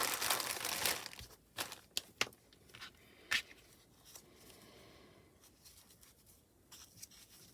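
A short tearing sound lasting about a second, followed by scattered light clicks and handling noises of crafting materials on a table.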